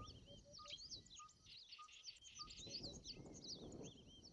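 Faint chorus of wild birds: many quick, rising-and-falling whistled chirps overlapping, with a row of short, evenly repeated low piping notes underneath.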